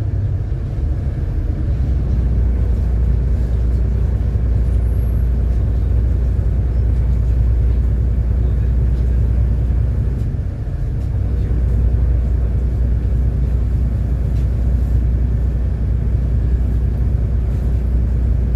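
City bus running along the road, heard inside the cabin: a steady, deep rumble of engine and road noise that dips briefly about halfway through.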